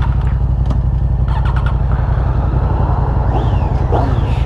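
Motorcycle engine running close to the microphone, loud and steady with an even low pulse, starting abruptly at the outset.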